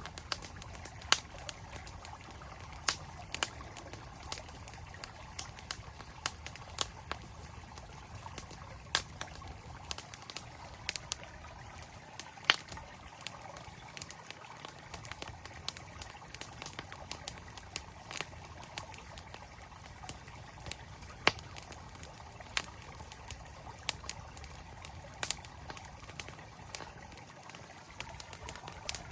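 Campfire crackling with sharp, irregular pops over the steady rush of a flowing stream.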